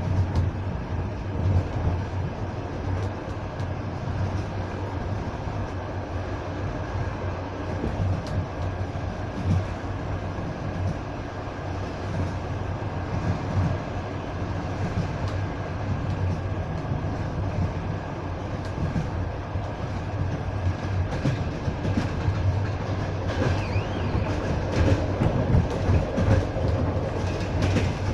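Passenger train running along the track, heard from a carriage: a steady rumble of wheels on the rails, broken by irregular clicks and knocks.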